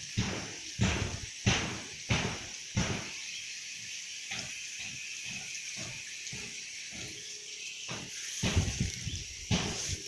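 Swiftlets calling around a swiftlet house: a steady high chirring with a run of short, harsh rasping calls about every half second, loudest near the start and again near the end.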